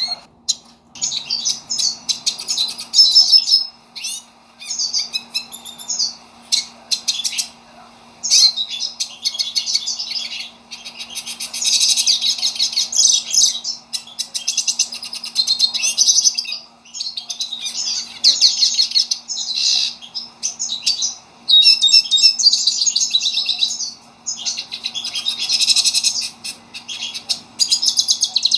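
A pintassilgo (a Spinus siskin finch) singing a fast, high twittering song in phrases of a few seconds each, separated by short pauses. A faint steady low hum runs underneath.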